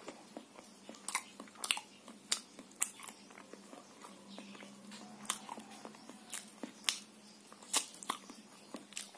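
Chewing and biting a fried popolulu, a sweet-potato cake with coconut and palm sugar, with irregular sharp mouth clicks and crunches about once or twice a second.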